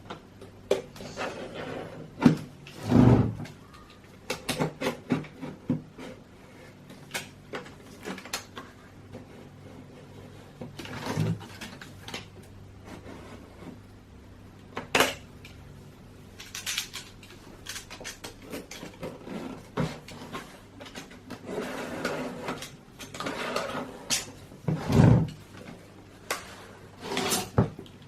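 Utility knife cutting and scraping through the silicone sealant around a car headlight lens: irregular scratches and clicks of the blade on the plastic and glass, with handling knocks. Two louder thumps come about three seconds in and near the end.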